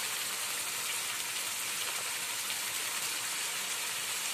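Chopped onions and spice paste frying in ghee in a nonstick frying pan: a steady, even sizzle with no stirring strokes.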